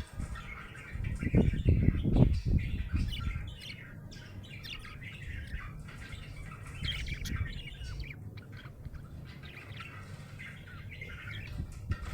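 Budgerigar chirping in quick short twitters and squawks throughout, with a few low thumps about one to two seconds in.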